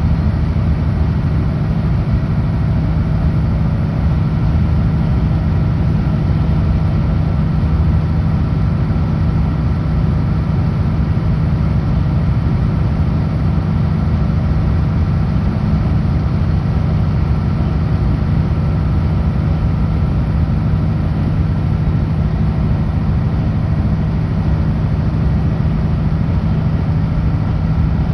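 Kenworth W900L truck's diesel engine running steadily at cruise with road noise, a constant low drone with no change in pitch or level.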